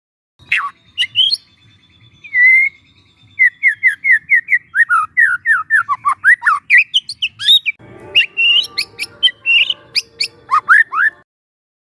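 White-rumped shama (murai batu) singing sharp whistled notes and chatter, with a fast run of about a dozen falling notes in the middle. From about eight seconds in, a denser layer of overlapping song joins it.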